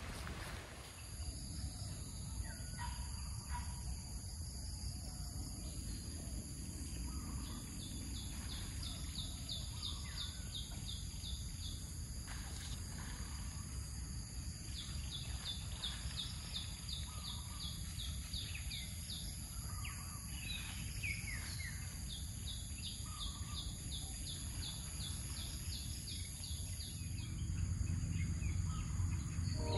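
Outdoor ambience with scattered bird calls and chirps, and repeated trills, over a steady high-pitched drone and a low rushing background noise.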